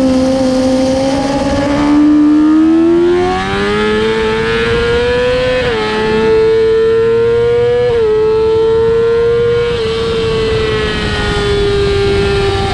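Motorcycle engine at high revs, heard onboard: the pitch climbs, dips briefly twice about two seconds apart as it shifts up, then holds and slowly falls as the throttle eases.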